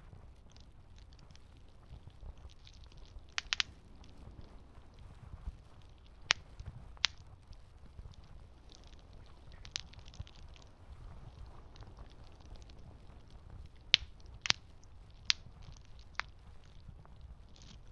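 Campfire crackling: irregular sharp snaps and pops over a low, steady rumble of burning wood, with a little cluster of pops about three and a half seconds in and another pair around fourteen seconds.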